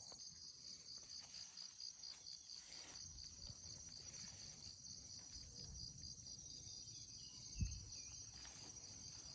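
Insects calling steadily: an even, fast-pulsing high trill over a high, hissing chorus. About three-quarters of the way through there is one short, dull low thump.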